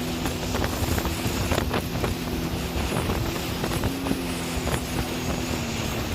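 Jet ski engine running at a steady speed, an even drone, with short knocks and splashes from the hull meeting the water and wind buffeting the microphone.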